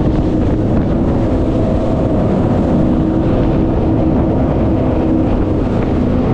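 Engines of a 40-foot Intrepid center console boat running steadily, a constant hum of a few steady tones over loud rushing noise.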